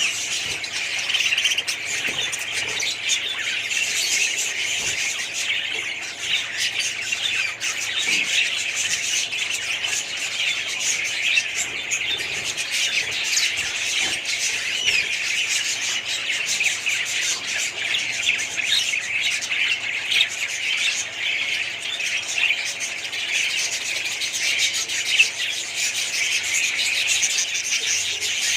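A flock of caged budgerigars chattering: many overlapping high chirps and squawks at once, keeping up a steady, unbroken din.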